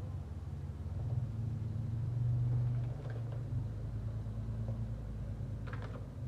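Mitsubishi 3.0-litre V6 engine running steadily at low revs, swelling slightly for a moment about two seconds in. A brief faint click or voice sounds near the end.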